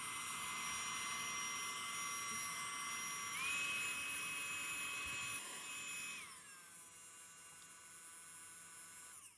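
Small motor of a rechargeable cordless hair dryer running with a high-pitched whine and a hiss of air. About three and a half seconds in, the whine steps up in pitch. Around six seconds in, the whine falls and fades as the motor winds down.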